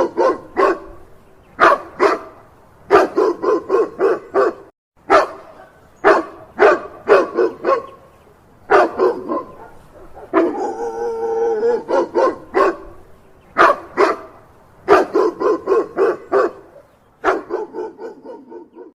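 Boxer dog barking in quick runs of several sharp barks, with short pauses between runs. A longer drawn-out call comes at the very start and again near the middle.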